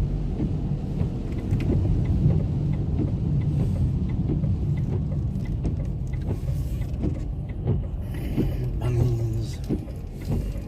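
Car cabin while driving: steady low engine and road rumble, with scattered light ticks and knocks.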